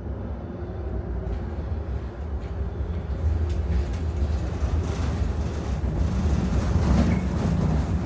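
Helsinki tram running on street rails: a steady low rumble with scattered clicks and rattles, growing a little louder toward the end.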